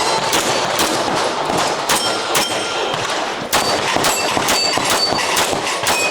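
Pistol shots fired in quick strings, often two or three a second, with steel targets ringing out after hits.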